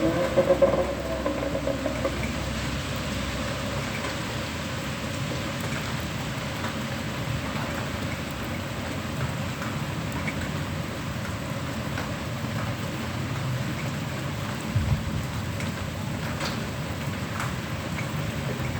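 Steady rain falling during a thunderstorm, an even hiss throughout. A short rising tone comes through in the first two seconds, and there are a few low thumps about fifteen seconds in.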